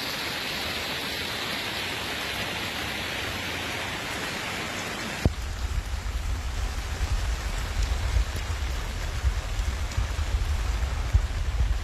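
Heavy rain falling in a steady, even hiss. About five seconds in, the sound changes abruptly to a deeper rumbling noise with scattered louder taps.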